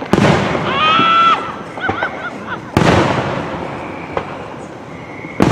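Aerial fireworks bursting overhead: three loud bangs, each trailing off, about two and a half seconds apart. Between the bangs there are whoops and voices from the crowd.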